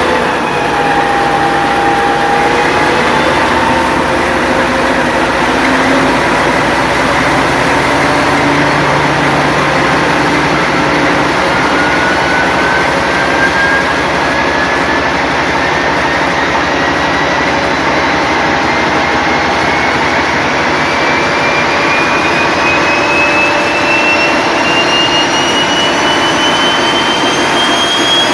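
TEP70 diesel locomotive's V16 diesel engine running loud, with the turbocharger's whistle climbing steadily in pitch through the second half as the turbine spins up.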